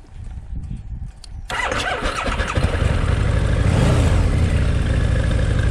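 Harley-Davidson V-Rod's liquid-cooled V-twin starting about a second and a half in, then settling into a steady idle.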